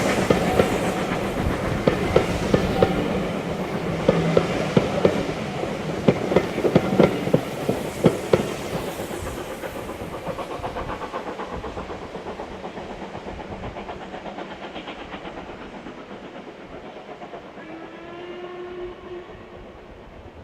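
Steam-hauled passenger train passing, its wheels clacking over the rail joints in quick groups, then fading steadily as it draws away.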